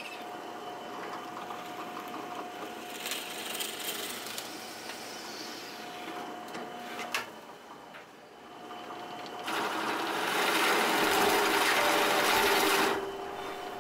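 A small power tool's motor running in spells, with a louder, harsher stretch of a few seconds near the end.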